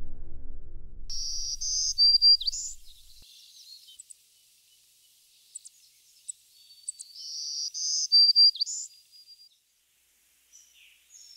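Music fading out over the first few seconds, then a songbird singing two near-identical high, quick chirping phrases, about a second in and again about seven seconds in, with a few faint chirps near the end.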